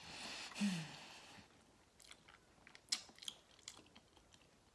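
A person eating: a breathy rush with a brief low falling hum about half a second in, then chewing and biting with scattered crisp clicks.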